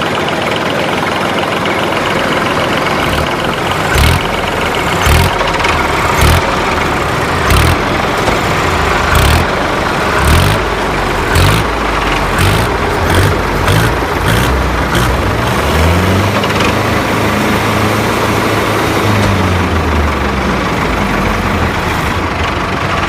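Tractor engine running, with a low thump about once a second for a stretch. Later its pitch rises and falls several times as the revs change.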